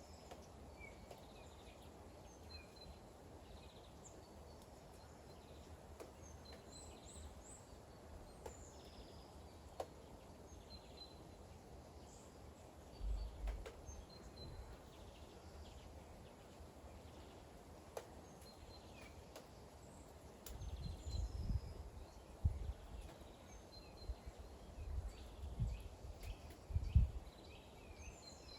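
Steady faint rain with small birds chirping now and then. Low rumbles swell about thirteen seconds in and several times in the second half.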